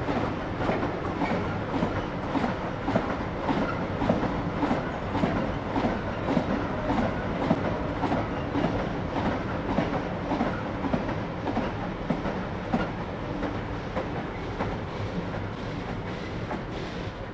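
A freight train of loaded MEA box wagons rolling past, its wheels clattering in a regular clickety-clack over rail joints and pointwork. The clatter eases near the end as the last wagon goes by.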